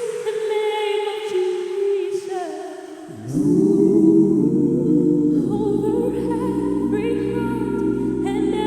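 Group of voices singing held chords in harmony. About three seconds in, the sound swells louder and fuller, with a deep bass underneath.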